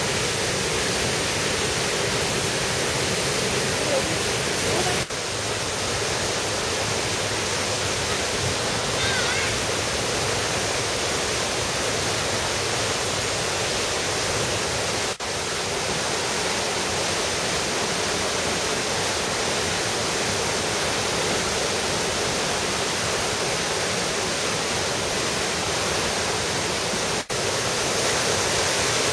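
Steady rushing of a valley stream and waterfall, broken by three very brief drop-outs.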